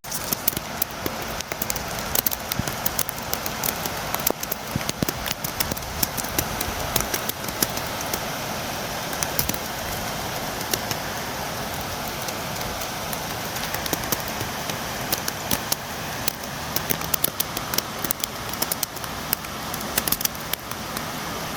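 Steady rainfall: a constant hiss with many sharp, irregular drop taps scattered through it.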